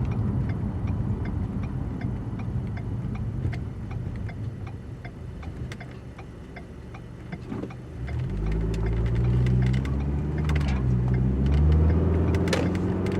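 Inside a Lexus car: the engine and road noise die down as the car slows for a stop sign, with a turn signal clicking steadily. About eight seconds in the engine pulls away again, rising in pitch as the car accelerates.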